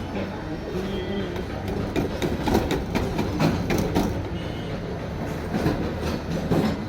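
Suzuki Swift petrol engine running with a steady hum and an irregular rattling clatter from a worn alternator bearing.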